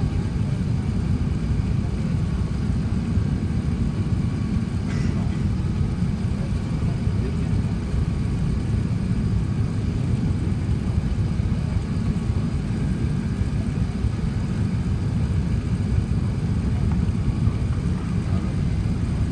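Steady low rumble of cabin noise inside an Airbus A380 on its landing approach, with a faint click about five seconds in.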